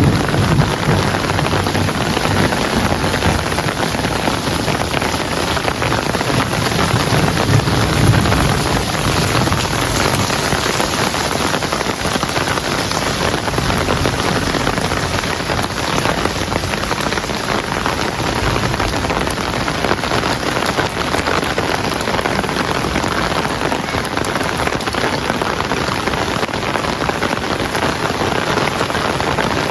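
Heavy rain falling steadily, a dense even hiss of drops on surfaces, with a low rumble swelling briefly about eight seconds in.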